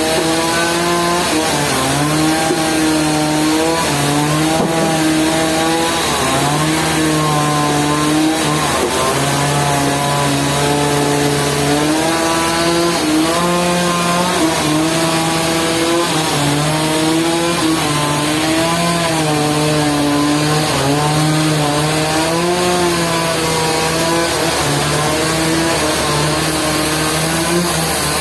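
Engine-driven sawmill running steadily, its pitch dipping and rising again every few seconds.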